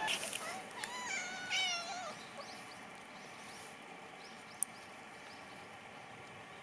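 Cat meowing: a few short calls that rise and fall in pitch over the first two seconds, then it goes quiet, with one sharp click about two-thirds of the way through.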